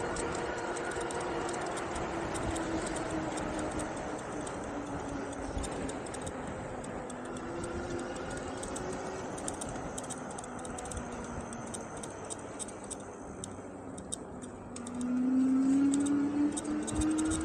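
Engwe Engine Pro e-bike's 750 W electric motor whining while riding at speed, its pitch sinking slowly, then climbing sharply and getting louder near the end as the bike speeds up. Wind noise and light ticking run underneath.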